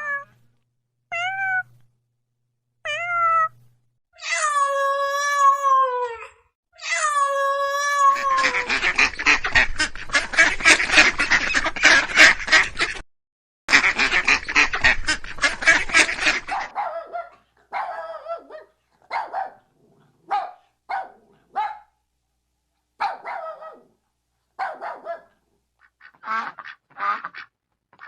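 A cat meowing in a few short calls and then two long drawn-out meows that slide down in pitch. Then ducks quacking, first in a dense, rapid chorus for several seconds and then in separate quacks about a second apart.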